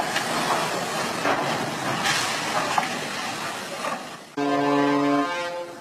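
Rushing wind and water noise, then, after a cut about four seconds in, a loud steady horn blast of about a second and a half that shifts to a different pitch near its end.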